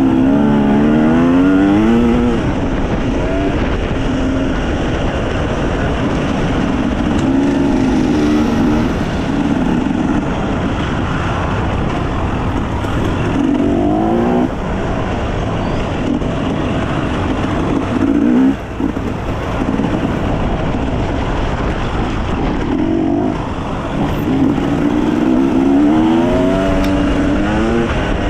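Enduro dirt bike engine revving up and down over and over as the throttle is worked, its pitch climbing in quick sweeps and dropping back, over a steady rush of noise. It drops off briefly about two-thirds of the way through, then revs up again near the end.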